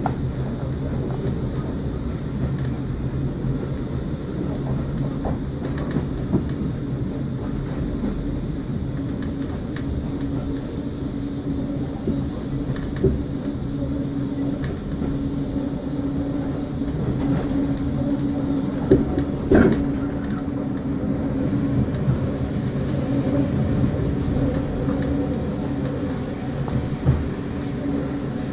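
Inside a moving railway carriage: the steady rumble of the train running along the track, with a low hum and a few sharp knocks and rattles from the coach.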